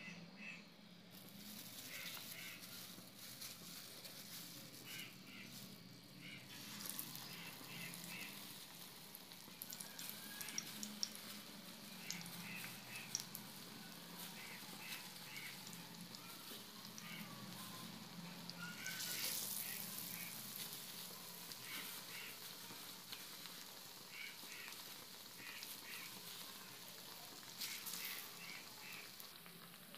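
Besan-battered potato slices shallow-frying in hot oil in a pan, a steady sizzle that swells louder at moments, most strongly about two-thirds of the way through.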